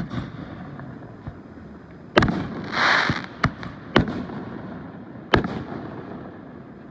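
Fireworks going off: a sharp bang at the start, then a string of bangs from about two seconds in, with a brief crackling hiss near three seconds.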